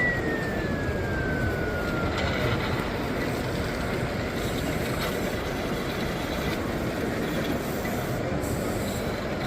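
Steady background noise of a busy exhibition hall. A high tone glides downward over about the first two seconds, then a faint steady tone lingers.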